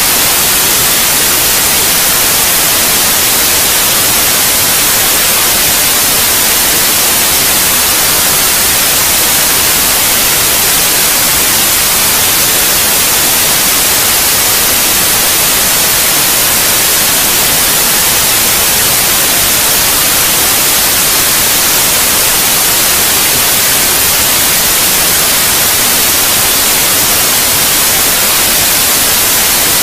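Steady white noise, an even, unchanging hiss, played to lull babies to sleep.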